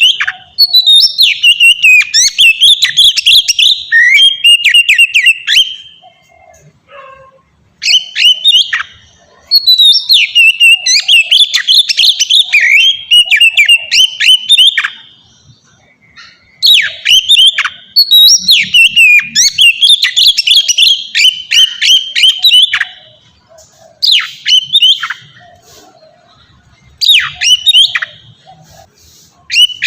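Oriental magpie-robin (kacer) singing loudly in long phrases of rapid, varied whistles and chattering notes, each run lasting a few seconds and broken by short pauses.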